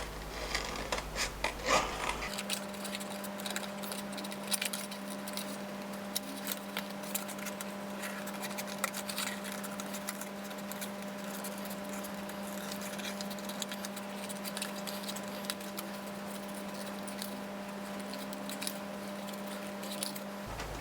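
Scissors snipping and cutting through thick watercolour paper in many small, irregular clicks, with a steady low hum underneath from about two seconds in until just before the end.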